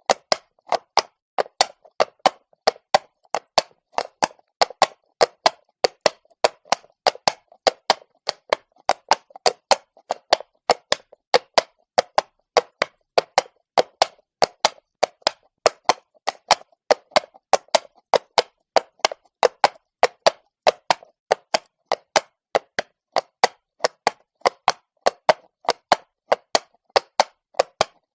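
A horse's hooves clip-clopping on stone cobbles at a steady walk, with sharp hoof strikes about three a second in an even rhythm.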